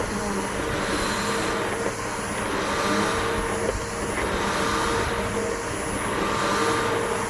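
Bissell BigGreen PowerForce upright vacuum cleaner running steadily, its motor hum mixed with a rushing air noise. The tone sweeps slowly about every second and a half.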